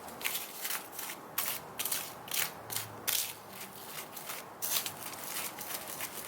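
A small utensil scraping and stirring in a small container, mixing DIY candy powder with water: a run of short, irregular scratchy strokes.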